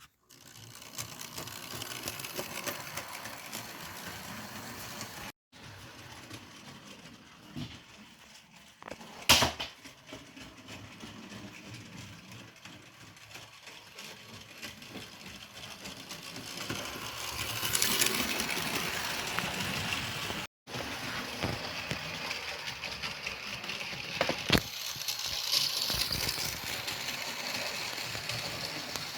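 Model train running around the track: a small electric motor whirring and the wheels rattling steadily along the rails, with a sharp click about nine seconds in.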